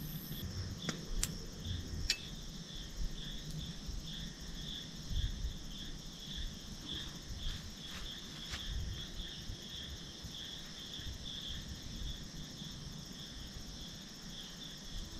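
Crickets chirring in a steady, slightly pulsing high trill, with a few faint clicks.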